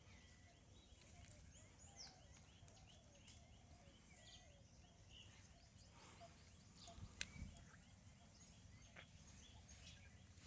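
Near silence: faint outdoor ambience with many distant small bird chirps, and a couple of soft low thumps about seven seconds in.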